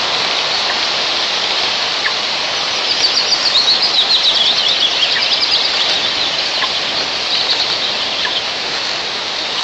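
Strong wind rushing over the nest microphone in a steady hiss. From about three seconds in, a bird calls in a rapid run of short, high chirping notes that slowly drop in pitch and fade out near the end.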